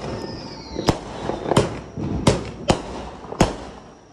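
Consumer fireworks going off: five loud, sharp bangs in under four seconds, with crackling between them and a faint whistle falling in pitch near the start.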